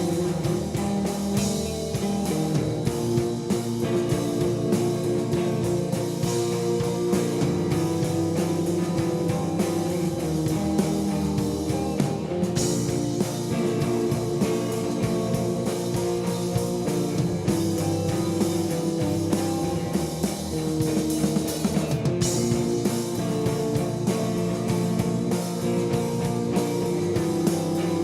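Rock band playing an instrumental passage: guitar over a drum kit, loud and continuous.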